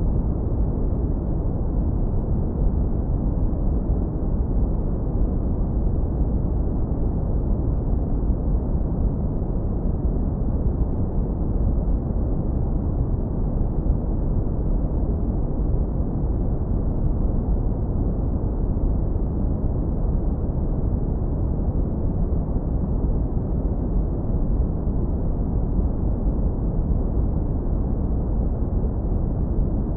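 Steady, deep, low-passed brown noise: an even rumbling hiss with its energy in the lowest frequencies and almost nothing above the low mids.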